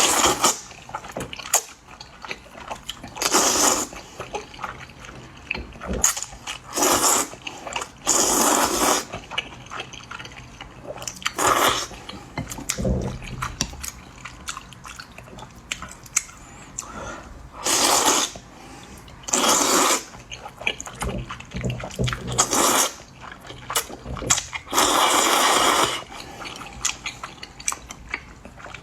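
Eating a bowl of potato starch noodles: long slurps every few seconds, with chewing and small wet clicks in between.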